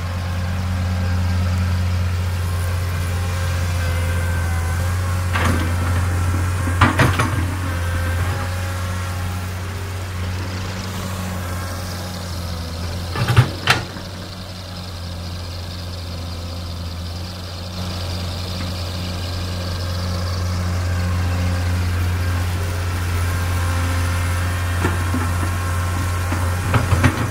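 Komatsu hydraulic excavator's diesel engine running steadily, its note swelling and easing with the digging load. A few sharp knocks about five, seven and thirteen seconds in, and again near the end.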